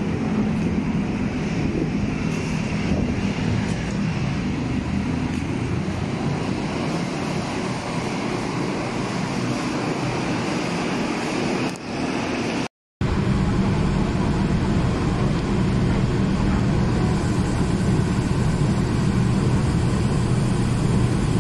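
Electric train noise: a steady rumble at the platform while the train stands at the screen doors, then, after a sudden cut-off of a fraction of a second, a steady low hum heard from inside the carriage as the train runs along the elevated track.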